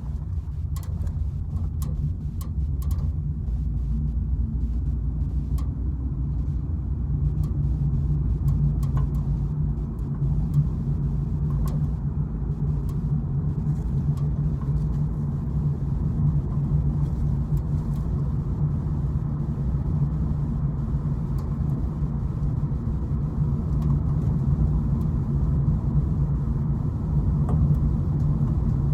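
Car driving, with a steady low road and engine rumble and a few faint scattered clicks, more of them in the first few seconds.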